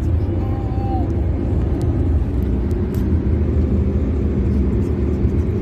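Steady low road and engine rumble of a car driving along a highway, heard from inside the cabin.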